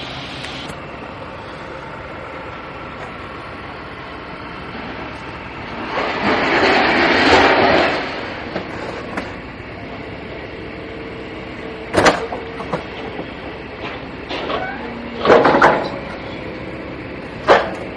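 Steady rumble of a moving vehicle, swelling into a loud rushing noise about six seconds in. Sharp knocks or bangs follow, about twelve seconds in, in a cluster around fifteen seconds, and once more near the end.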